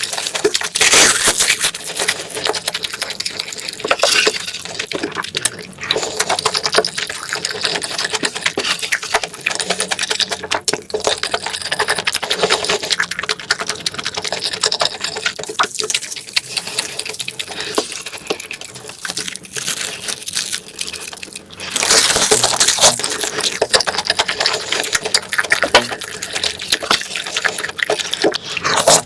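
Close-miked eating sounds: continuous wet chewing, smacking and slurping of food, with louder stretches about a second in and again a little over twenty seconds in.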